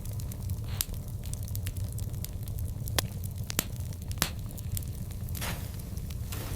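Wood fire burning and crackling: a steady low rumble with scattered sharp pops, the loudest about three, three and a half and four seconds in, and a short hiss near the end.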